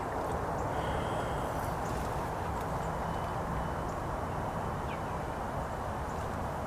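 Steady hiss of frozen mix (sleet) coming down, with faint scattered ticks.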